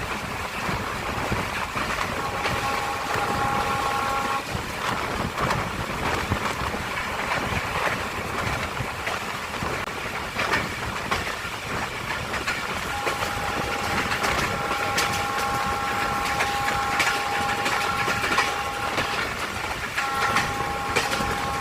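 Passenger train running along the track, with a steady rumble and the clatter of wheels over rail joints. A train horn sounds a steady three-note chord: briefly about two seconds in, then a long blast from a little past the middle to the end, broken once shortly before the end.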